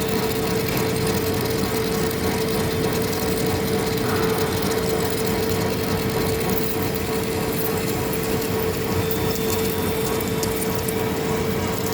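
Heavy-duty lathe running while turning a large steel part: steady machine noise with a constant tone held at one pitch.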